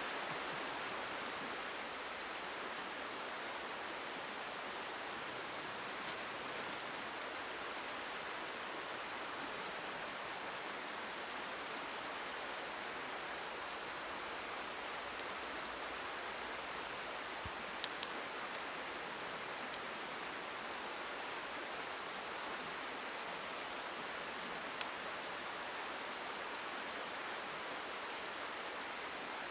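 Steady rushing of a flowing river, with a few short sharp cracks about two-thirds of the way through and once more near the end.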